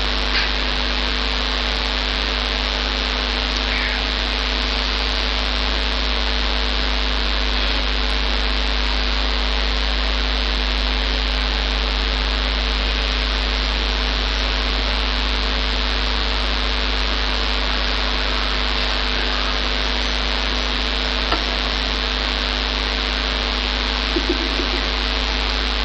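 Steady electrical mains hum with an even hiss from a microphone and amplifier chain, with a couple of faint clicks near the end.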